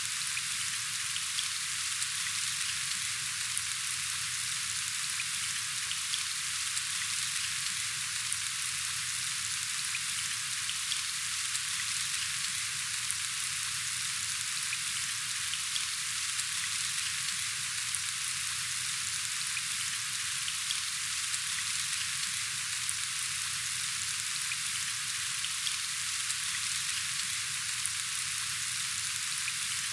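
Steady rain falling: an even hiss of many small drops, with occasional single drops ticking through it.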